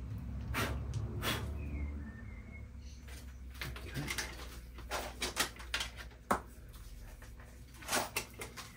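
Scattered clicks and knocks of small parts and cable being handled, with a low rumble in the first two seconds.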